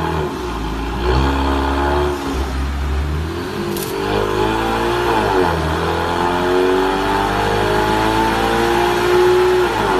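Loud car engine and exhaust accelerating hard through the gears. The revs climb and fall back sharply at several quick upshifts in the first half, then rise in one long, steady pull.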